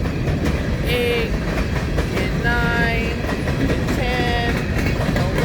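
Empty coal train's cars rolling past: a steady rumble and clatter on the rails, with short high-pitched squeals about a second in, again from about two and a half to three seconds, and around four seconds.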